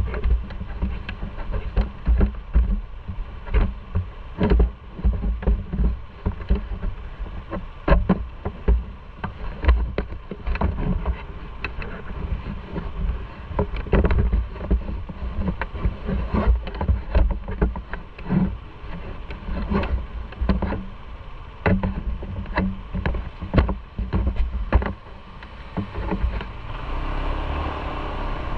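Motorcycle riding at speed: the engine's low rumble under wind buffeting the microphone in irregular thumps. Near the end the buffeting eases and a steadier rushing noise takes over.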